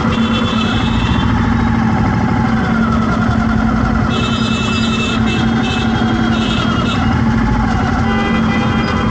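Street traffic with a vehicle engine running steadily close by, and short high-pitched tones sounding between about four and seven seconds in.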